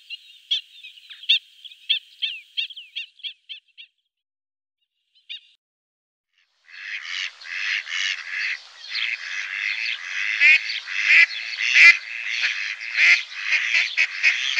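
Birds calling: a quick run of short, high calls for about four seconds, a pause, then from about seven seconds in a dense chorus of many birds calling together.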